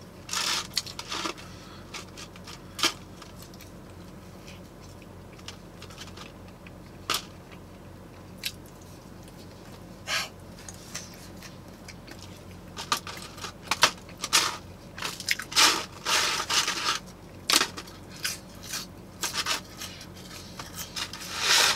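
Close-up crunching and chewing of fried onion rings, in scattered crisp bites with pauses between, coming more often in the second half.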